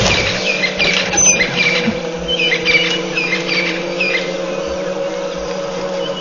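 Small birds chirping in quick, high calls, thick in the first three seconds or so and sparse after, over a steady low hum.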